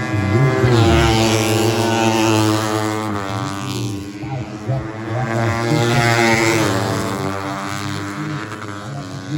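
Tuned 150cc four-stroke underbone race motorcycles running hard on the circuit, several engines droning together, their pitch rising and falling as riders pass and shift, with louder swells about a second in, around three seconds and around six seconds.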